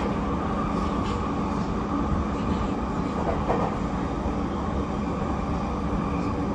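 Inside the passenger cabin of a JR East E231-series commuter train under way: a steady rumble of wheels on rail with a faint low hum.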